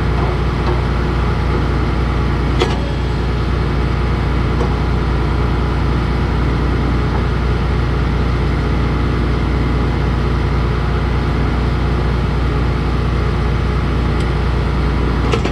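Case IH 2144 combine's diesel engine idling steadily. A single sharp click comes about two and a half seconds in, and another just before the end.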